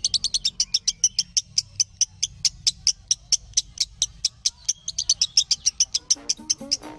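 Lovebird chirping in a rapid, unbroken string of short, sharp, high chirps, several a second: the 'minor' chirping style used as a master song to make other lovebirds answer.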